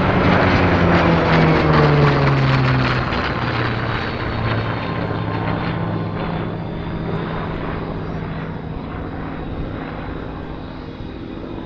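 Propeller-driven airplane's piston engine passing by, its pitch dropping as it goes past in the first few seconds, then running on and slowly fading away.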